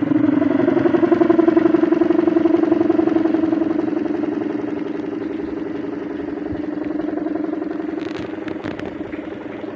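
Kite hummer droning: a loud, buzzing hum like a small engine that holds one steady pitch and slowly gets quieter, with a few short clicks near the end.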